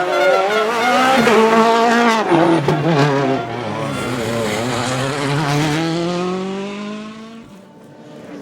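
Rally car engine at full load on a special stage, pitch jumping up and down through quick lifts and shifts, then one long rising pull as the car drives away, fading out near the end.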